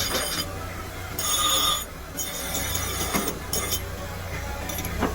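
Metalworking in a kick-start lever workshop: a steady machine hum with metal clinks and knocks, and a short loud metallic ringing tone about a second in.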